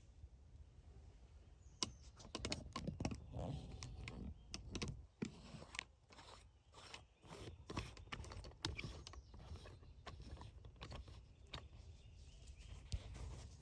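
An irregular, rapid series of sharp clicks and crunches, starting about two seconds in and thinning out near the end.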